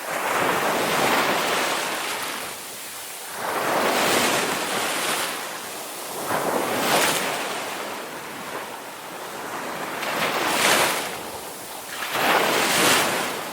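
Ocean waves breaking and washing on the shore, the surf rising and falling in a slow rhythm with five swells, one every two to three seconds.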